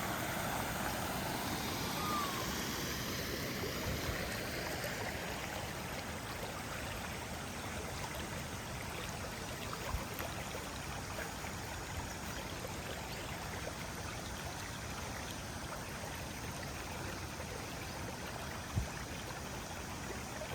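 Steady rush of running water, as from rainwater runoff flowing on the farm after heavy rain, with a short whistled chirp about two seconds in and a few faint knocks later.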